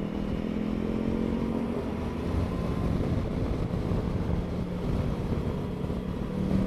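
Motorcycle engine running at a steady cruising pace while riding, with wind rumble on the microphone; the engine note eases off slightly partway through and picks up again near the end.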